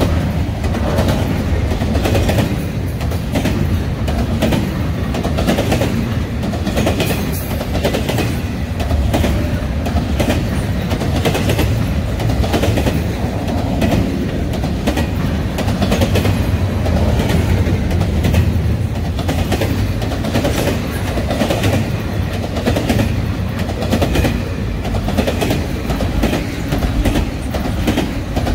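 Double-stack intermodal freight cars rolling past: a steady rumble of steel wheels on rail with a regular clickety-clack as the wheel sets go by.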